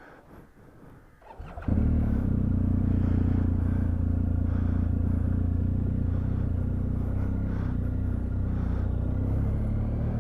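Motorcycle engine started about a second and a half in, catching at once and then idling steadily.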